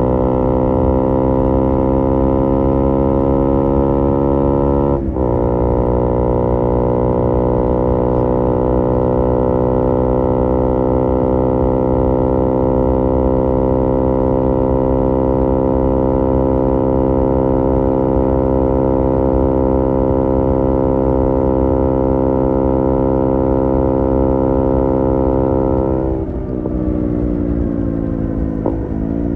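KTM Duke 125's single-cylinder four-stroke engine through an IXIL IXRACE MK2 aftermarket exhaust, pulling under load. The revs shift up with a brief break about five seconds in, then climb slowly and steadily for about twenty seconds, and fall away as the throttle closes near the end.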